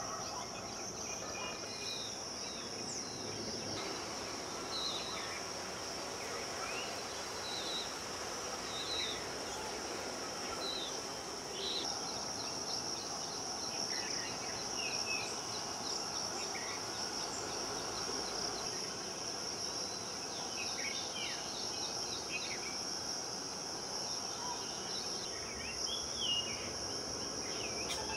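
A steady, high insect drone with many short bird chirps and calls scattered over it, busier in the second half.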